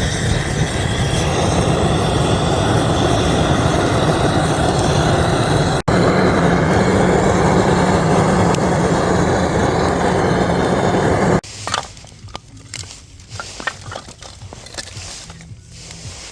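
A loud, steady rushing noise that cuts off abruptly about eleven seconds in. After it comes quieter, irregular crackling and snapping, typical of a burning wood fire.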